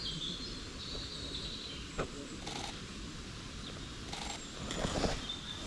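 Outdoor lakeside ambience: a steady low rumble of wind on the microphone, with a small bird singing briefly at the start. A single sharp click comes about two seconds in, followed by a few short rustles.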